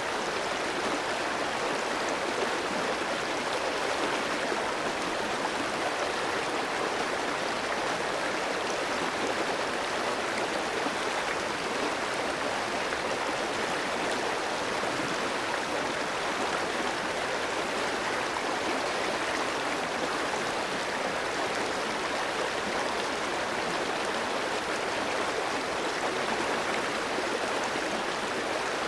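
Clear mountain stream flowing over rocks, a steady rush and babble of water with no breaks.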